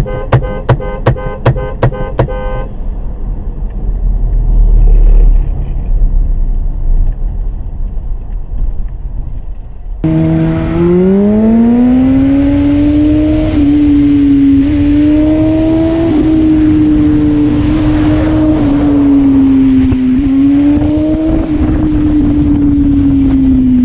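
Car sounds: for the first couple of seconds a quick even clicking with a beeping tone, then low road rumble. About ten seconds in, a car engine revs up and holds at high, wavering revs.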